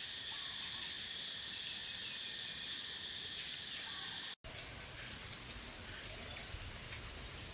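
A steady chorus of insects trilling on high tones. It cuts off abruptly about four seconds in and gives way to a fainter outdoor background with a few thin high tones.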